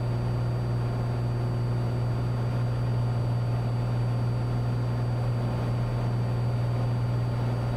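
Steady low drone of a Cessna 182T's six-cylinder Lycoming IO-540 engine and propeller heard inside the cabin, at climb power shortly after takeoff.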